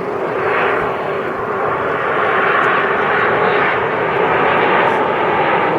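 Aermacchi MB-339 jet trainers of an aerobatic display team flying past: a loud, steady rush of jet noise that swells and eases in waves.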